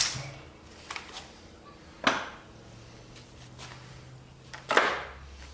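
Scattered knocks and clanks of hand tools and engine parts being handled during an engine teardown: four separate hits, the loudest near the end, over a faint low hum.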